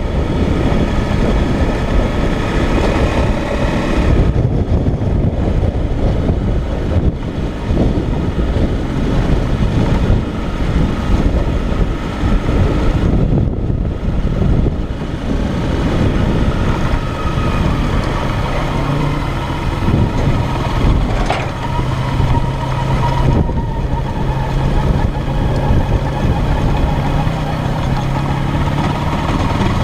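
Motorcycle engine running on the move, with wind rushing over the helmet or bike-mounted camera's microphone. The engine note eases off briefly three times and settles into a steady drone in the last part.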